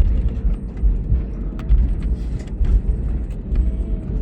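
Airliner cabin noise on the ground after landing: a steady low rumble from the engines and the wheels rolling on the taxiway, with a faint hum and scattered small clicks and rattles.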